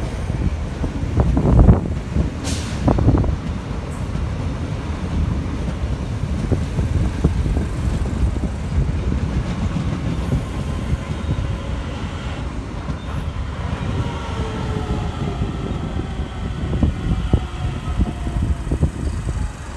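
DART electric multiple-unit train running past at close range: loud wheel knocks over rail joints in the first few seconds, then a steady rolling rumble. From about halfway through, several falling whining tones sound over the rumble.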